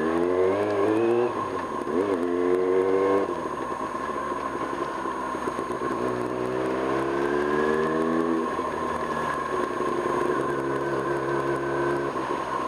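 1995 Kawasaki Ninja ZX-6R's inline-four engine under way, its pitch climbing as it accelerates, dropping back at gear changes and holding steady between, over steady road noise.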